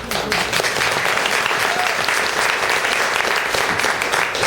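Audience applauding at the end of a song.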